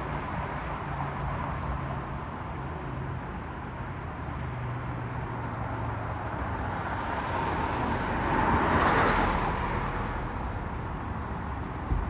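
Street traffic: a vehicle's engine hums low, then a vehicle passes close, its tyre and engine noise swelling to a peak about nine seconds in and fading away. A short sharp knock comes near the end.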